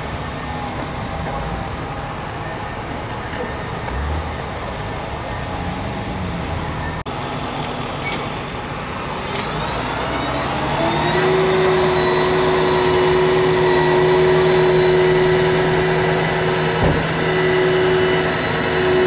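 An engine speeds up over about two seconds, roughly halfway through, then runs on at a steady high speed with an even, strong hum. Before that there is a steady outdoor background haze.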